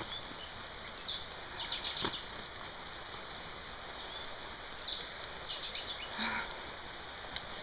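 Short, high bird chirps in small clusters over a steady outdoor hiss of wind and movement along a grassy path, with a few soft knocks.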